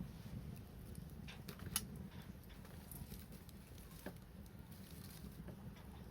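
Wood fire crackling, with scattered small pops and one sharper pop about two seconds in.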